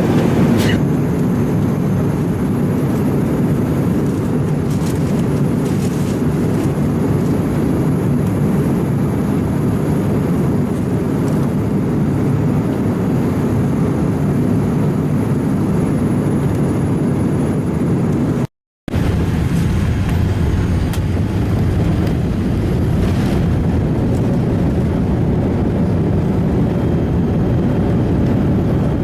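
Steady low rumble of engine and airflow noise inside a Boeing 787 Dreamliner's passenger cabin in flight. It cuts out completely for a split second about two-thirds of the way through.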